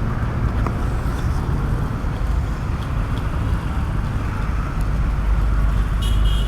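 Steady road traffic noise, a continuous rumble of vehicles, with a short high-pitched beep about six seconds in.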